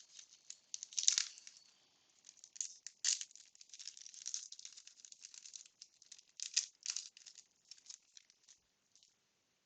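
Wax-paper wrapper of a baseball card pack crinkling and crackling as it is opened by hand, in irregular bursts that die away about nine seconds in.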